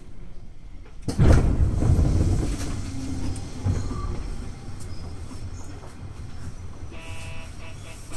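Electric commuter train running: about a second in, a sudden loud low rumble sets in and fades over several seconds into a steadier running noise. Near the end, a pulsing electronic tone starts.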